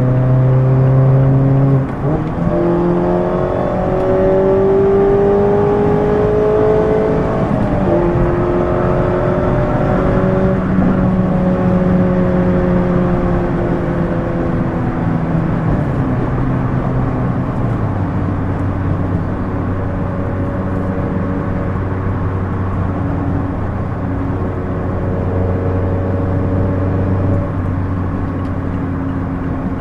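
Mazda MX-5 Miata four-cylinder engine through a Goodwin Racing RoadsterSport race exhaust, heard from the driver's seat. The revs climb after a gear change about two seconds in and break again at another shift near eight seconds. They then ease off and settle into a steady, lower cruising note from about sixteen seconds on.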